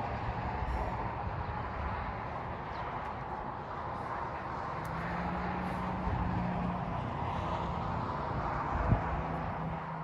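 Strong winter storm wind blowing steadily, with a faint steady hum joining about halfway through and a single thump near the end.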